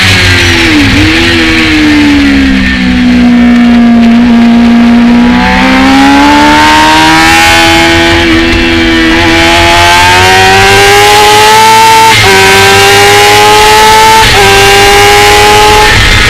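Sport motorcycle engine on a race track, heard onboard: the revs fall through a corner, then climb hard with two quick upshifts near the end, under heavy wind rumble on the microphone.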